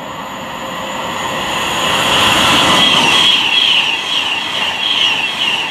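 A Class 390 Pendolino electric train passes at speed. It grows louder as it approaches, is loudest about halfway through, and then carries on with a high hiss that pulses in a steady rhythm.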